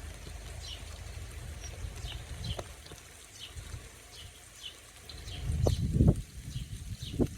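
A small bird repeating a short, high, falling call about twice a second, over a steady low rumble, with a louder low rush of noise around six seconds in.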